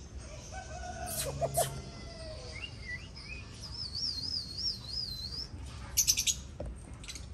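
Birds calling: short chirps about a second in, a warbling whistle in the middle, then a quick run of sharp chirps about six seconds in.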